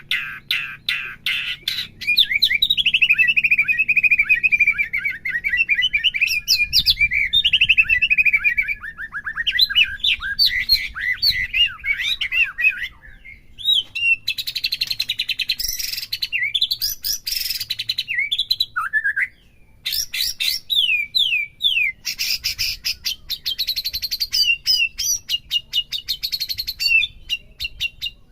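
White-rumped shama (murai batu) singing a long, varied song of whistled phrases, sliding notes and rapid chattering trills, with two brief pauses partway through.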